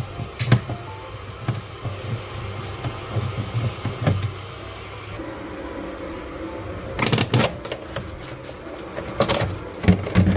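Refrigerator vent-cover screws being undone and the plastic panel handled: a click about half a second in, then two bunches of sharp clicks and clatters near the end, over a steady low hum.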